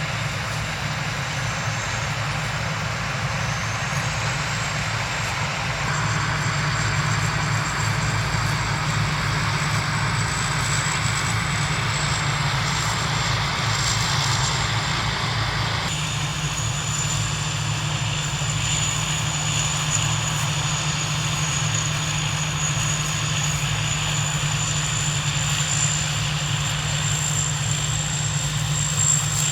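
A large engine running steadily as a continuous drone, with a thin high whine above it. The tone shifts slightly about halfway through.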